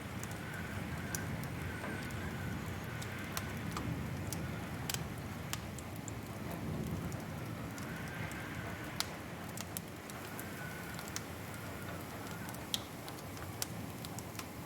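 Wood fire crackling in a fireplace: a steady low rush of burning with scattered sharp pops and snaps at irregular moments.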